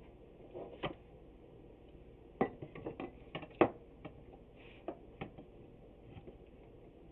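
Irregular light knocks and clicks of wooden boards and clamps being handled and adjusted during a glue-up, one a little under a second in, then a quick cluster of several over about a second and a half, and two more a little later.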